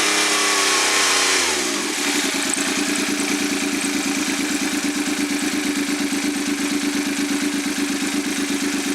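Suzuki K6A three-cylinder engine running bare on a test run. It is held at raised revs, drops back about a second and a half in, and settles into a steady, pulsing idle.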